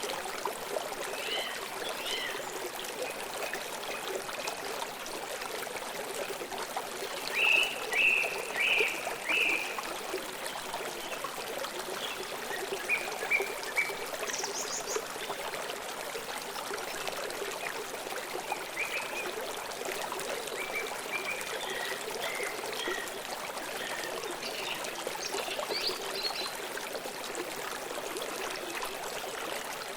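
Stream water flowing steadily, with birds chirping over it. A run of four loud calls comes about eight seconds in, with scattered fainter calls through the rest.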